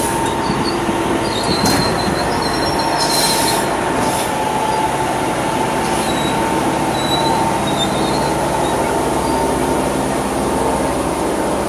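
Railway track maintenance machine running steadily, its engine droning under a steady high whine, with a few short metallic squeaks about two and three seconds in.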